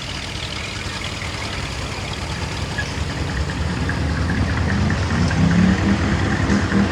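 A car engine running with a low, pulsing exhaust note, growing louder about halfway through as it comes closer.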